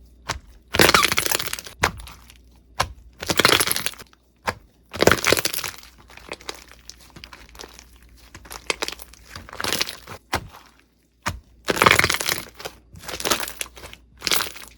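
Crunchy slime being pressed and squeezed by hand, crackling in bursts of about a second each, about seven times, with short sharp clicks between.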